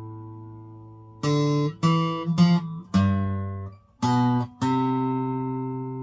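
Acoustic guitar picking a slow single-note melody: a held note fades out, then about six notes are plucked one after another from about a second in, some cut short, and the last is left ringing.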